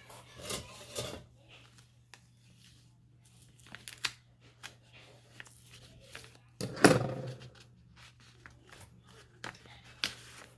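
Paper and card being handled and pressed on a journal page: intermittent rustling, crinkling and small taps, with a louder, sharper rustle about seven seconds in.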